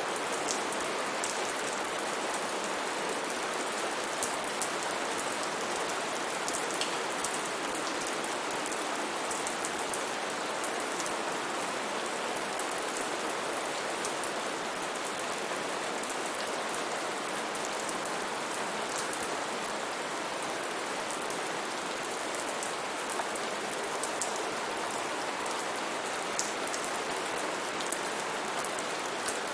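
Steady heavy rain falling on foliage, a dense even hiss with scattered sharp drop ticks.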